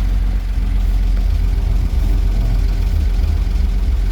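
1937 International truck's engine running steadily at low speed while the truck is backed up, a deep continuous hum.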